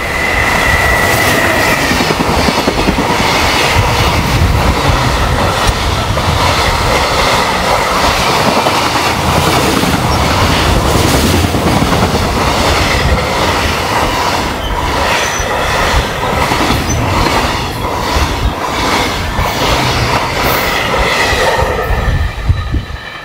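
A train running past on the JR Kobe Line, its wheels clacking over rail joints, with a high wheel squeal near the start and again near the end.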